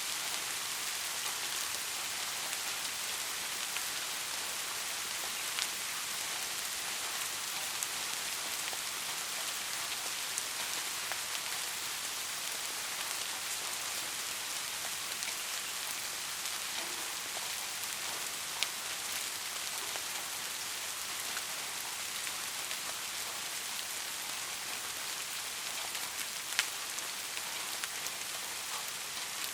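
Steady rain falling, an even hiss with scattered louder drop ticks now and then.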